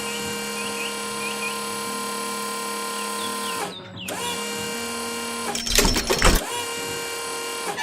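Steady pitched machine whirr like a power tool or motor, a cartoon machinery sound effect. It drops out briefly about four seconds in, and a short louder burst of noise cuts in around six seconds.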